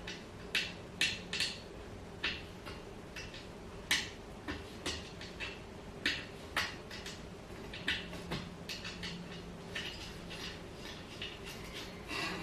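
Irregular light clicks and clinks of small metal hardware and hand tools being handled while putting together a flat-pack dining chair, some fifteen to twenty in all.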